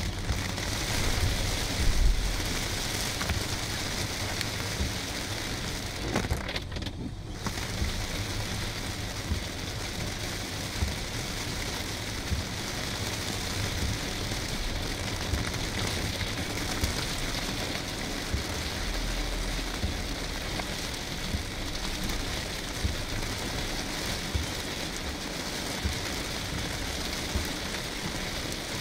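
Heavy rain pelting the roof and windshield of a car, heard from inside the cabin, with the car's low rumble underneath. The rain noise drops away for about a second around seven seconds in, then returns.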